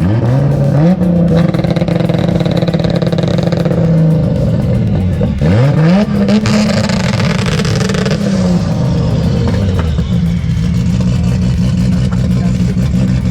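Car engine revved up quickly and held at high revs for several seconds. It briefly drops and climbs again, holds, then falls back to a steady lower speed for the last few seconds.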